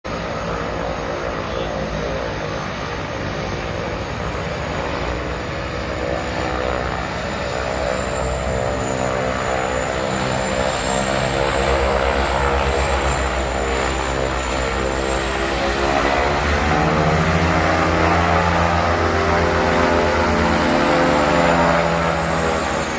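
Turboprop airplane engines running, a steady propeller drone under a high turbine whine, growing gradually louder.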